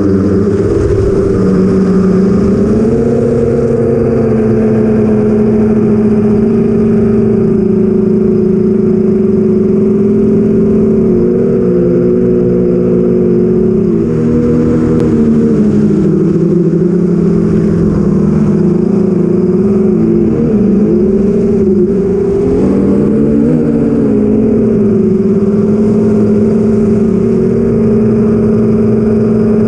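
Hum of an 8-inch FPV quadcopter's brushless motors (BrotherHobby Avenger 2812) and 8045 propellers in flight, a steady multi-tone drone whose pitch wavers up and down with throttle changes, most noticeably around the middle.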